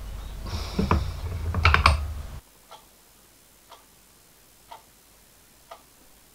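Metal clinks and rattles of the cutter arbor and its nut being handled and tightened, over a low hum that cuts off abruptly about two and a half seconds in. After that a clock ticks faintly, once a second.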